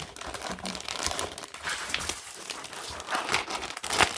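Small plastic bags of diamond painting drills crinkling as they are handled, a run of irregular crackles with a sharp louder crackle about four seconds in.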